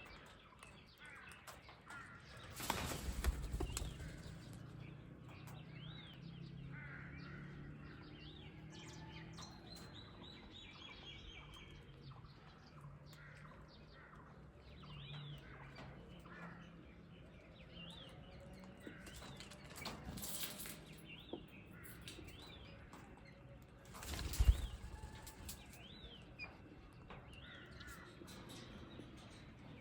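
Small birds chirping in short, quick calls over and over, with loud bursts of wings flapping about three seconds in and again around twenty and twenty-four seconds in.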